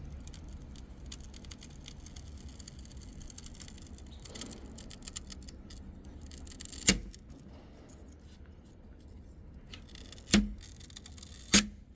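Small handling noises of a washing machine's touch control panel being worked on by hand: faint scratching and clicking as the ribbon cable is worked off, then three sharp knocks, about seven seconds in and twice near the end.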